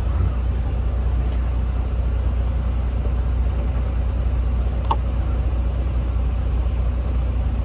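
Semi-truck engine running with a steady low rumble.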